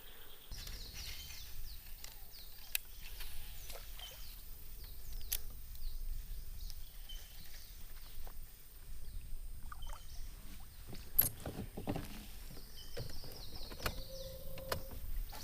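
Scattered knocks and clicks of a kayak and fishing gear being handled on the water, over a steady low rumble.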